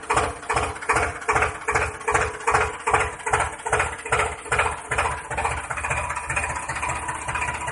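Tractor engine idling with a steady chug of about three beats a second, turning quicker and smoother after about five seconds.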